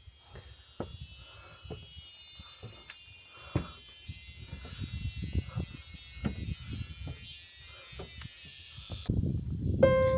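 Insects buzzing steadily at a high pitch, stopping about nine seconds in, with irregular soft low thumps underneath.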